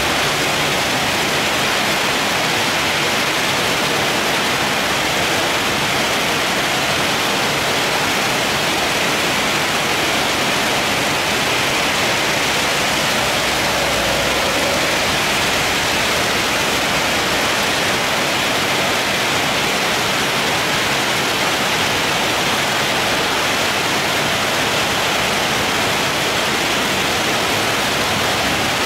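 Very heavy tropical rain pouring down, a loud steady hiss that does not change.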